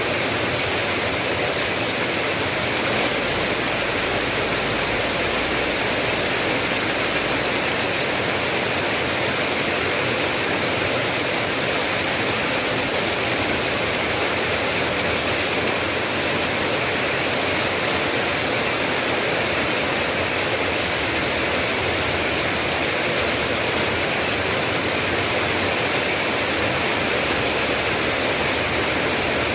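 Steady, unbroken rain, an even hiss of heavy rainfall.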